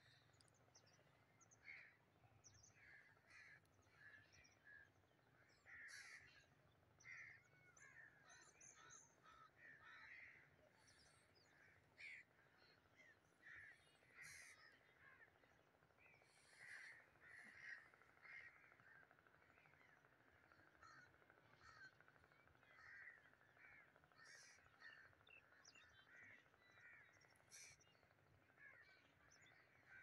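Faint bird calls: many short calls repeated over and over, with no voices and no machines.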